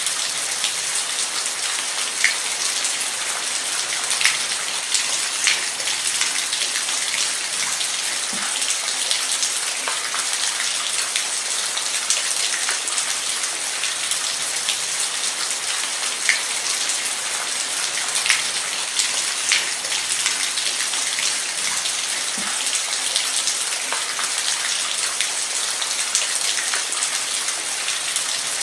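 Steady rain falling as an even hiss, with individual close drops ticking sharply every second or so.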